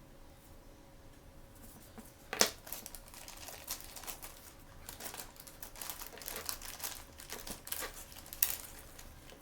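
Crinkly blind-bag packaging being torn open and handled: a sharp crackle about two and a half seconds in, then irregular crinkling and rustling with another sharp crackle near the end.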